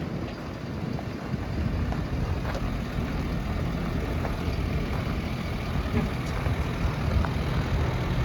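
Ford F-550 truck engine idling steadily, a low even rumble.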